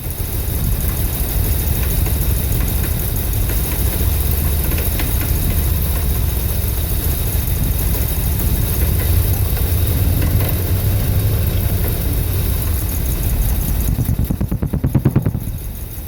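Dodge 318 V8 with an Edelbrock 600 carburetor idling roughly, the idle fluctuating. About 14 seconds in it drops into a slower, uneven pulsing beat before picking up again.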